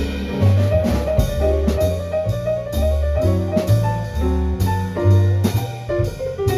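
Jazz piano trio: a piano solo over bass and a drum kit, with the pianist's line moving through the middle register while the bass sounds low notes underneath and the drums keep time.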